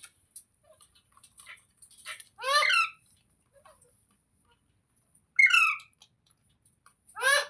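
A parrot giving three loud, harsh squawking calls a few seconds apart, with soft chirps and clicks in between.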